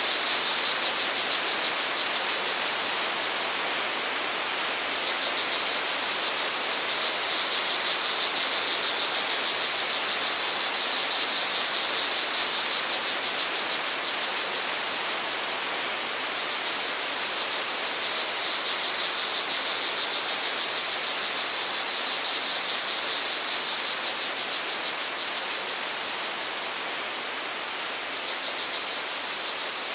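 Steady rush of flowing water from a stream or waterfall, with crickets chirping in a fast, even pulse high above it; the chirping drops out briefly a few times and comes back.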